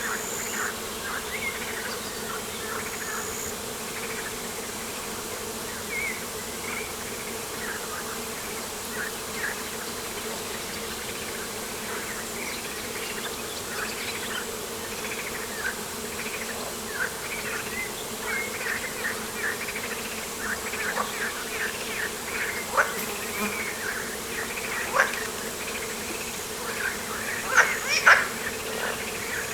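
Insects buzzing in a steady hum over outdoor ambience, with many short high chirps scattered through. The chirps grow busier in the second half, and a few louder sharp ones come near the end.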